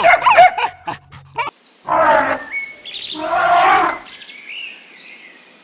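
Animal calls: a run of short high yelps, then two loud, harsh roars about two and three and a half seconds in, with bird chirps between and after them.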